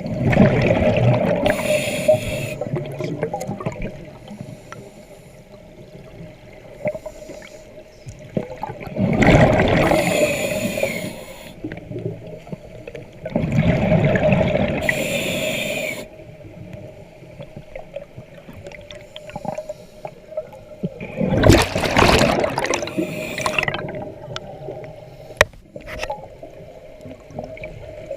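Scuba diver breathing underwater: gurgling bursts of exhaled bubbles from the regulator every several seconds, over a steady faint hum.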